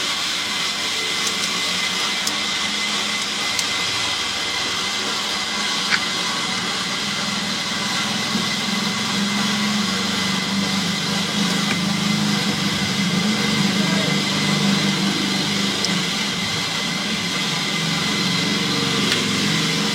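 A machine running steadily with a strong hiss and a low hum that grows louder about eight seconds in.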